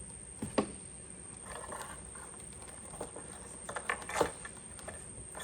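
A few scattered small clicks and taps with a brief rustle: small parts and a hand tool being handled while a wheel collar and its set screw are worked off an RC plane's landing gear.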